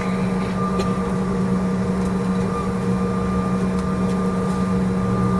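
Steady drone heard inside the cabin of a CRJ-900 regional jet: a constant low hum with faint steady whining tones above it, unchanging throughout.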